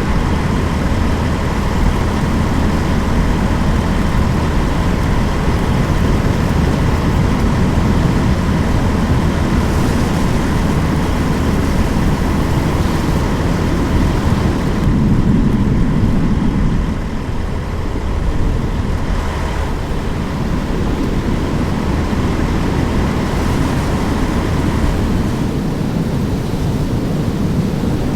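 Motor vehicle driving, with a steady low drone of engine and road noise and a dense rush of noise over it.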